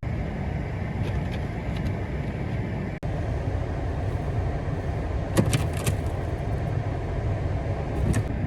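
Car driving, a steady low rumble of engine and road noise, with a few short sharp clicks around the middle and near the end.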